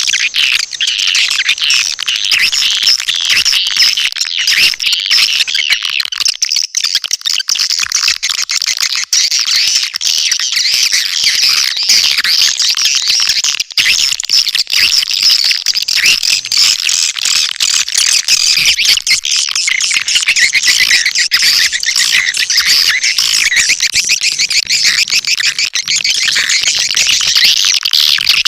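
Swiftlet lure call: a loud, unbroken chatter of high, rapid swiftlet chirps and twitters. It is the kind of recording played to draw swiftlets into a nesting house.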